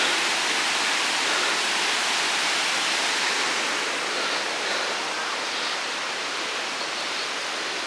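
Steady rushing noise of a tall (54 m) mountain waterfall falling in a single vertical drop, easing slightly about halfway through.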